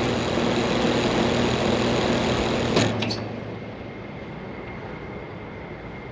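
York LX Series 5-ton air conditioner condensing unit running with a steady hum and fan noise. About three seconds in, two sharp clicks sound, likely the contactor dropping out, and the hum cuts off as the unit shuts down, leaving a quieter steady whoosh.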